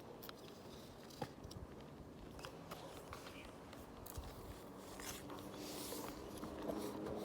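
A horse cropping grass and chewing, with soft tearing and crunching and a few scattered knocks. A faint steady low tone builds near the end.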